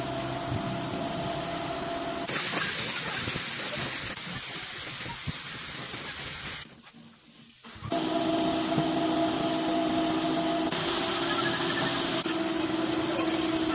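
Compressed air hissing from an air gun in two long bursts, over a steady machine hum. The sound drops away briefly near the middle.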